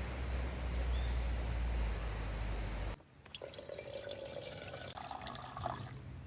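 Steady outdoor rushing noise with a strong low rumble that cuts off abruptly about three seconds in. Then water is poured into a container, its pitch rising as it fills, stopping shortly before the end.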